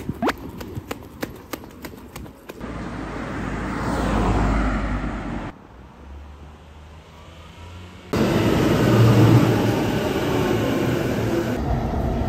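Footsteps on wet pavement, then a rising rush of passing road traffic that cuts off. After a quieter stretch, a train runs steadily, heard from inside the carriage.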